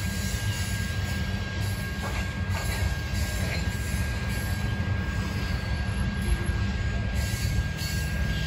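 Train rolling by on the tracks, a steady low rumble of wheels on rail.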